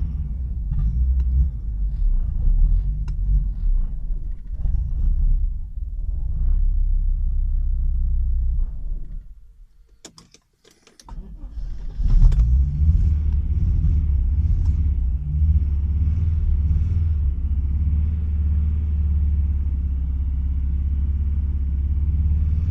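Audi AAR 2.3-litre five-cylinder engine running unevenly with misfires, a symptom of problems after an NG-to-AAR engine swap. About nine seconds in it drops away, a few sharp clicks follow, and from about twelve seconds it runs again, more steadily.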